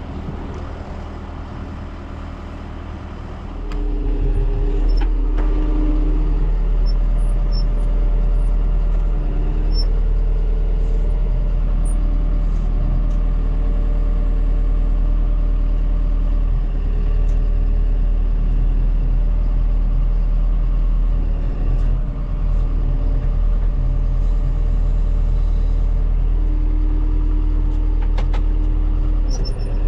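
Vehicle engine running steadily with a deep low hum, getting louder about three and a half seconds in, its pitch shifting a little now and then as it works.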